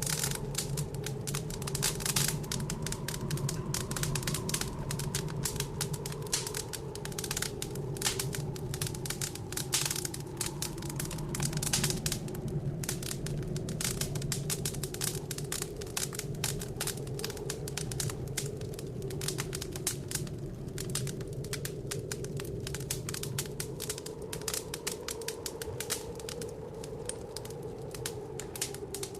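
Wood fire crackling in a fireplace, a dense run of small pops and snaps, over a steady low blizzard wind that slowly rises and falls.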